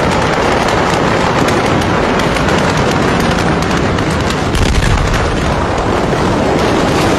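Fireworks crackling and popping fast and without a break in a large fire, over a steady low rumble.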